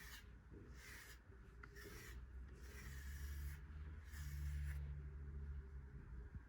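A brush raking through a cat's fur in about five scratchy strokes, the later ones longer. A low rumble runs under the last strokes.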